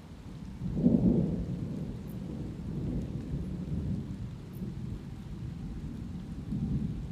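Thunder rumbling over steady rain: a deep roll breaks in about a second in, is loudest at its start, rolls on, and swells again near the end.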